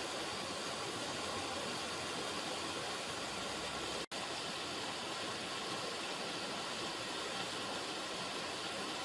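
River water running, a steady, even rush with no change in level. About four seconds in the sound cuts out for an instant and comes straight back.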